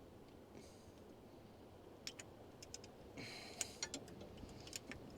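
Faint, scattered metallic clicks with a short scraping rustle in the middle, from hand work with tools and small metal parts on the engine.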